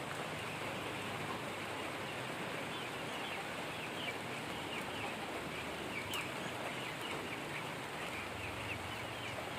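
Steady rain, with many short, high peeps from ducklings from about two and a half seconds in, and one sharp click midway.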